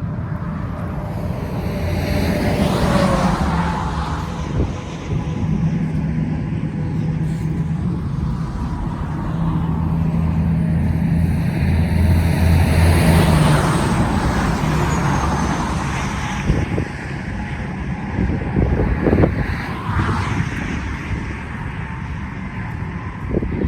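Road traffic: vehicles passing one after another, their engine hum swelling and fading over a steady rush of tyre noise.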